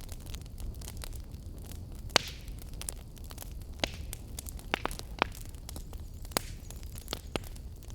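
Fireplace fire crackling: sharp irregular pops and snaps over a steady low rumble of the flames, with the loudest pop about two seconds in.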